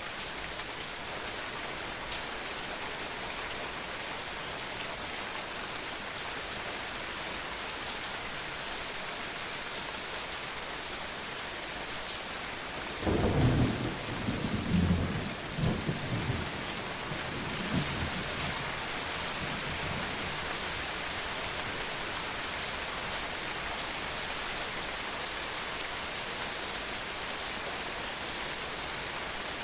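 Steady rain falling throughout. About halfway through, a clap of thunder breaks in and rumbles on in several swells for about five seconds.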